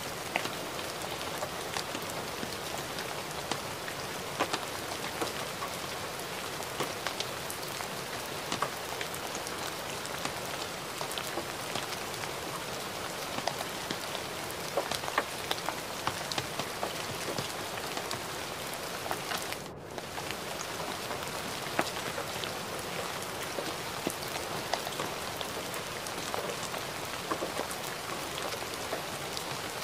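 Steady gentle rain falling, with many separate drops ticking through a soft even hiss. The sound drops out briefly about two-thirds of the way through.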